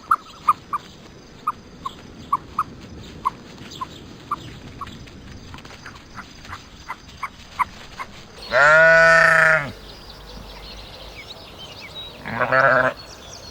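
Short high chirps, about one or two a second, for the first eight seconds. Then a goat or sheep type farm animal bleats twice: a long, loud bleat about eight seconds in and a shorter one near the end.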